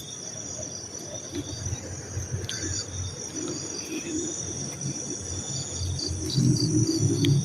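Crickets chirping steadily in a high, continuous chorus. A low rumbling noise builds underneath near the end.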